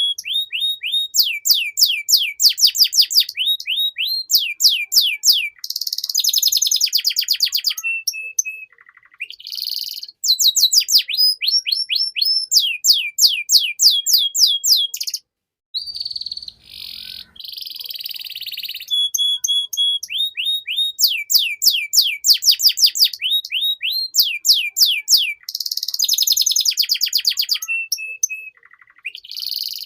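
Domestic canary singing a long song of fast rolling trills and rapid runs of repeated sweeping notes, with buzzy rolls and a few held single notes between. The song breaks off briefly about halfway through, then resumes.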